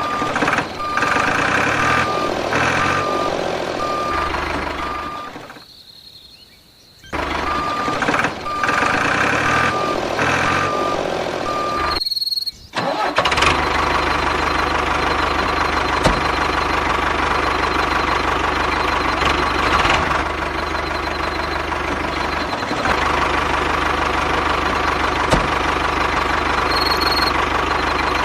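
Engine-like running of a mini tractor, steady and continuous. It drops away for about a second some six seconds in and breaks off briefly near the halfway point.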